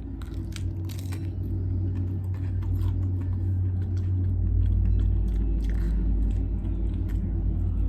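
A person biting and chewing a chicken taco, with scattered small crunches and mouth clicks over a loud, steady low rumble that grows stronger about four seconds in.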